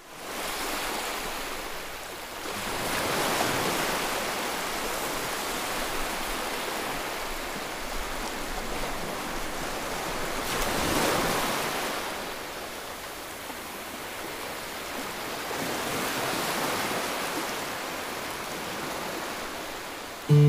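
Ocean surf breaking and washing in, a steady rush that swells and fades in several slow surges.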